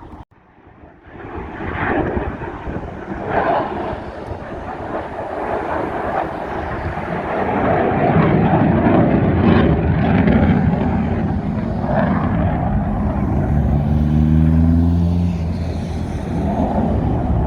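An aircraft's engine noise builds steadily as it flies past, then holds loud. About three-quarters of the way through its pitch falls as it goes by.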